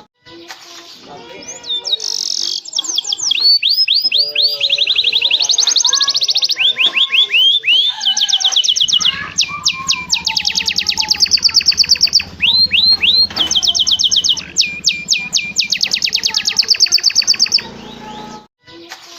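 Domestic canary singing a long, varied song of fast trills and rapid repeated high notes, broken by a couple of short pauses.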